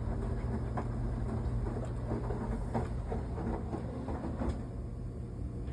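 Washing machine running: a steady low motor hum, with water sloshing and the load tumbling in the drum in irregular knocks and splashes, which grow fewer after about four and a half seconds.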